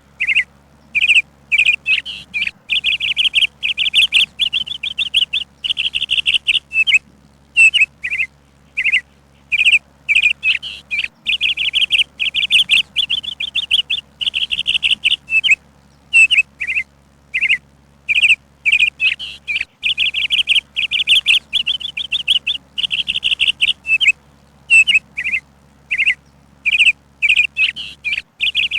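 Songbird chirping and trilling: short high chirps alternating with fast trilled runs of rapid notes, in bursts separated by brief pauses.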